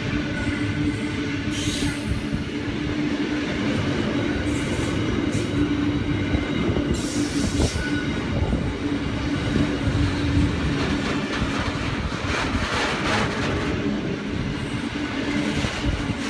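Freight train wagons rolling past steadily, wheels squealing with a steady tone and clattering over the rail joints.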